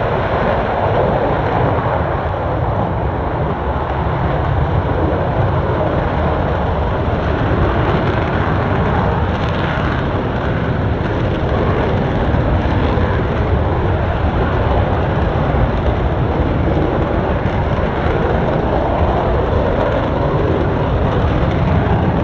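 Military jet engine noise, loud and steady with no breaks.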